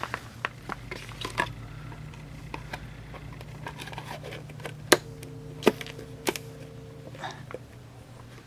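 Scattered sharp clicks and knocks over a low steady hum, with three louder clicks about five to six and a half seconds in.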